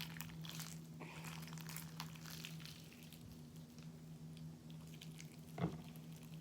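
Hands squishing and pulling a stiff, slightly sticky slime: faint wet clicks and crackles, mostly in the first few seconds, with one soft thump about five and a half seconds in. A steady low hum runs underneath.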